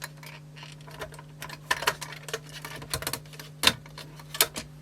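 Irregular clicks and light knocks from hands and tools handling the open cassette deck's plastic mechanism, one sharper knock a little past halfway, over a steady low hum.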